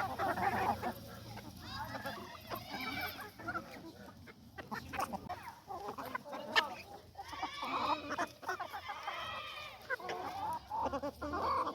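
Chickens clucking on and off in short, bending calls, with a few sharp taps among them.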